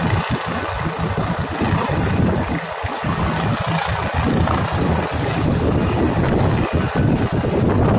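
Helicopter close by, its rotor and turbine engine running loud and steady with a heavy low chop.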